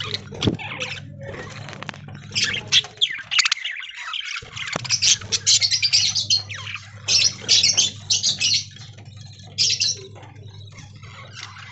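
A flock of budgerigars chattering and squawking in quick, overlapping calls, with a steady low hum underneath that drops out briefly about four and a half seconds in.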